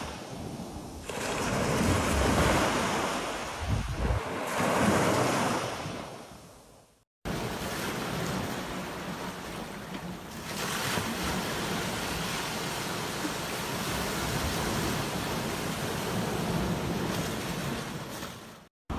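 Ocean surf: waves breaking and washing up a beach in a few swelling surges that fade away about seven seconds in, then a steadier stretch of surf.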